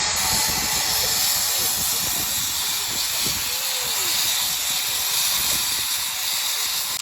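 Loud, steady hissing like escaping steam that starts and cuts off abruptly, in keeping with a steam-train sound effect.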